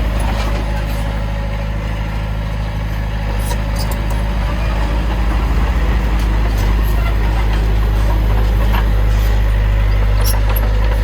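Heavy diesel engine of earthmoving machinery running steadily, growing a little louder about halfway through, with faint scattered clicks.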